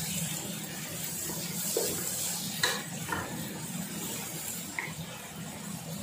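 Tomatoes and chili frying in oil in a metal pot, sizzling steadily while a wooden spoon stirs them, with a few knocks of the spoon against the pot, the loudest about two and a half seconds in.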